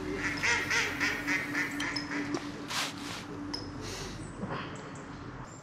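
Duck quacking in a quick run of calls over the first two seconds or so, then fading away.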